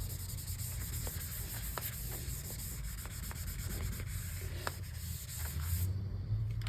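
Rubbing and wiping on a MacBook's casing during cleaning: a steady scratchy scrubbing that stops abruptly about six seconds in, with a few light clicks along the way.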